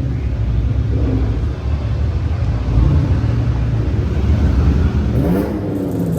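A car engine running loud and low, revving up about five seconds in.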